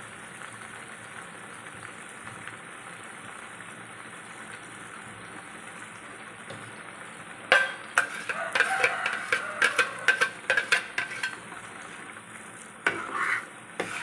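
Blended chilli and turmeric spice paste sizzling steadily in hot oil in a frying pan. About seven and a half seconds in, the sizzling jumps suddenly louder as more paste is poured in from a blender jug, followed by a metal spatula scraping and knocking against the pan as the paste is stirred.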